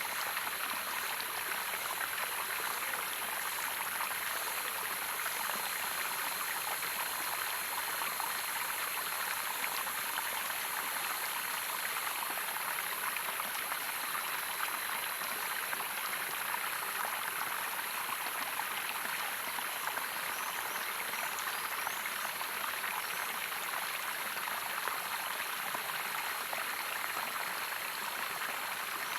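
Running water of a small waterfall, a steady rushing splash with no breaks.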